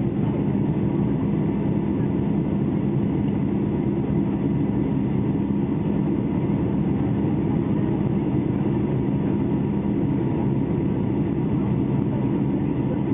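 Steady drone of an airliner cabin in flight, engine and airflow noise with a low hum running evenly throughout.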